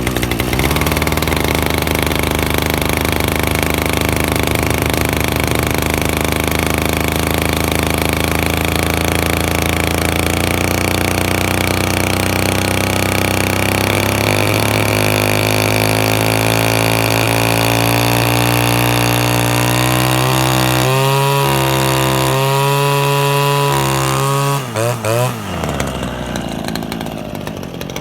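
RedMax BCZ2500S string trimmer's two-stroke engine running steadily on a cold start, its pitch creeping slowly upward. About 21 s in its speed starts to waver, and about 25 s in it falls away to a lower speed.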